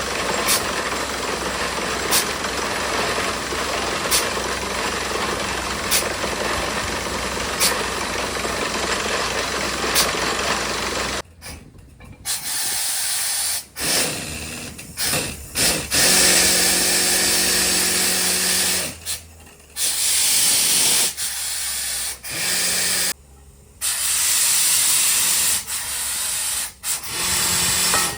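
Mini borewell drilling rig running steadily, with a sharp click about every two seconds. Partway through, loud bursts of compressed-air hiss start, cutting in and out several times.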